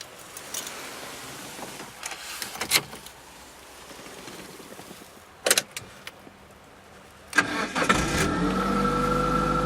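TagAZ Aquila's engine being started: after a few sharp clicks, the engine cranks and catches about seven seconds in. It rises briefly in pitch as it flares on start-up, then settles into a steady idle.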